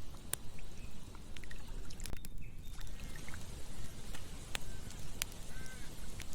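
Campfire burning with scattered sharp pops and snaps of wood over a low steady rumble.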